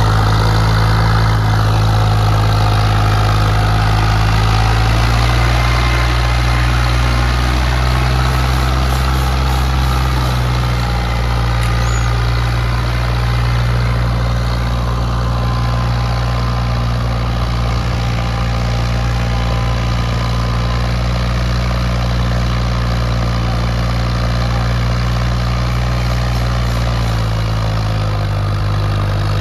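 Ford 3610's three-cylinder diesel engine running steadily under heavy load, pulling a fully loaded sugarcane trailer; its pitch shifts slightly a few times.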